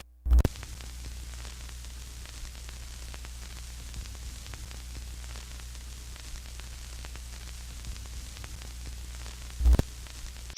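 Steady static hiss over a low hum, scattered with faint crackles, with a loud thump just after the start and another near the end.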